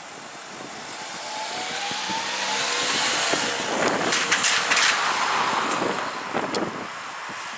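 JR Central 313 series electric multiple-unit train passing. Its rumble builds to a peak about four to five seconds in, with a rising whine on the approach and sharp wheel clicks as the cars go by, then fades.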